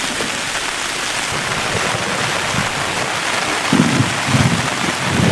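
Heavy rain falling steadily, with three short low rumbles near the end.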